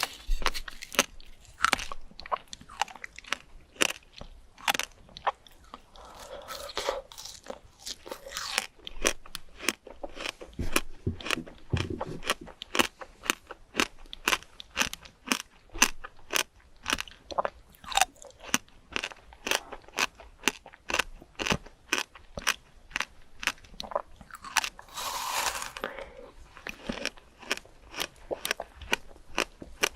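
Close-up crunching and chewing of crisp fruit, a steady run of sharp crunches about two or three a second, with one longer crunch about 25 seconds in.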